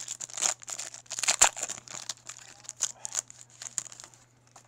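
Foil trading-card pack wrapper being ripped open, with quick bursts of crinkling and tearing that die away near the end.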